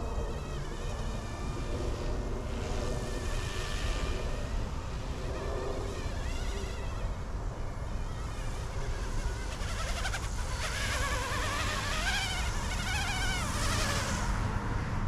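E150 direct-drive brushless micro RC helicopter in flight: a buzzing whine from its rotors and motors that wavers up and down in pitch as it manoeuvres. The whine is strongest from about ten seconds in.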